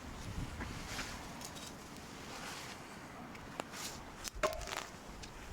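Quiet camp handling sounds: scattered light clicks and rustling, with one sharper metallic clink that rings briefly about four and a half seconds in.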